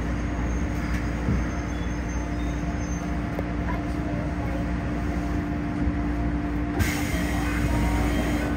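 Keikyu 1500 series field-chopper electric train braking to a stop at a station: steady low rumble with a constant droning tone. A sudden hiss of air starts about seven seconds in as the train comes to rest.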